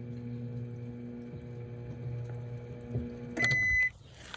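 Microwave oven running with a steady electrical hum, then shutting off about three seconds in and sounding one loud beep, the first of its end-of-cycle beeps: the heating time is up.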